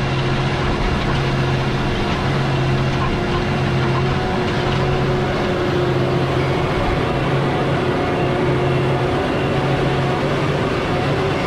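John Deere 8270R tractor's six-cylinder diesel engine running steadily under load while pulling a direct drill, heard from the cab, with a regular low pulsing throb.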